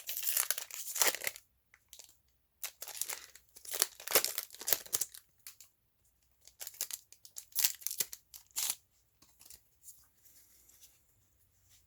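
Crinkling and tearing of a Pokémon booster pack's foil wrapper, in three bunches of rustling, dying down to faint handling noise near the end.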